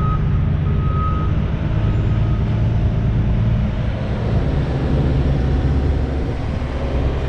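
Semi-truck diesel engine running with a steady low rumble. A reversing alarm beeps about once a second for the first two seconds or so, growing fainter before it stops.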